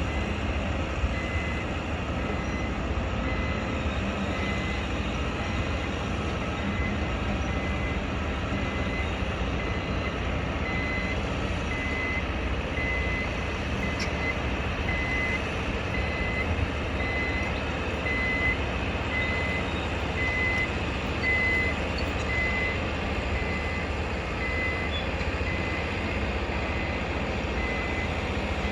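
A construction vehicle's reversing alarm giving steady, evenly spaced high beeps, louder around the middle, over a constant low rumble of site machinery and traffic.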